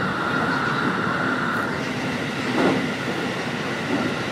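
JR West Special Rapid Service electric train heard from inside, running through a tunnel with a steady rumble of wheels on rail. A high steady tone fades out about a second and a half in, and a brief louder noise comes about two and a half seconds in.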